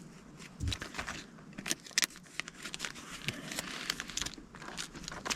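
Paper task cards and a folder being handled: rustling and crinkling with many small clicks and taps scattered throughout.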